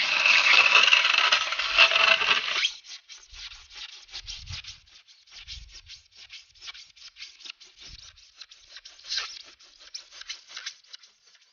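Saw cutting through an extruded polystyrene foam board, a loud rasping rub that stops abruptly about two and a half seconds in; scattered faint ticks and crackles follow.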